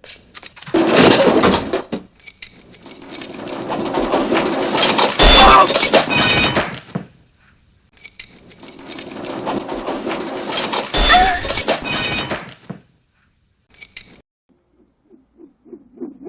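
A clothes iron clattering down a chute and striking a man's face with a loud hit, followed by a cry of pain. The sequence plays twice.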